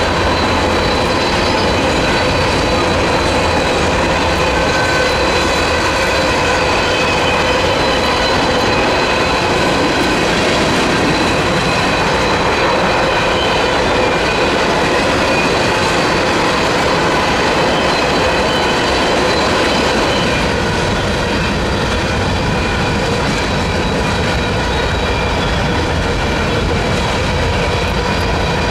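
A Norfolk Southern mixed freight train's cars rolling steadily past, the wheels clacking over the rail with steady high-pitched squealing tones; the sound eases slightly about two-thirds of the way through.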